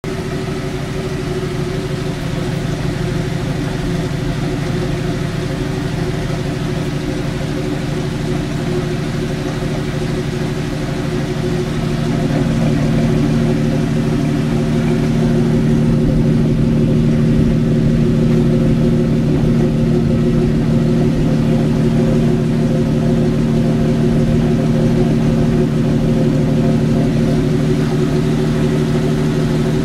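Jeep YJ engine idling in third gear with the wheels off the ground, the drivetrain and wheels turning steadily and growing a little louder about twelve seconds in; the owner takes the noise for a bad wheel bearing.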